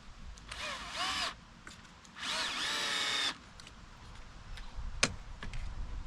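Electric drill run in two short bursts, its motor pitch rising and dipping as the trigger is worked, the second burst longer and steadier; a few sharp clicks follow near the end.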